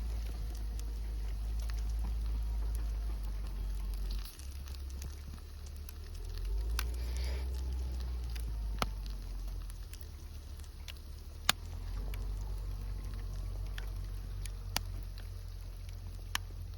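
Campfire crackling, with a few sharp pops standing out over a faint hiss and a steady low rumble.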